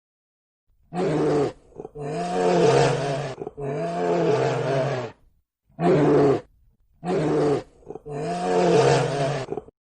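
Bear vocalizing in a series of six deep roaring growls, the longer ones sliding down in pitch, with short pauses between them.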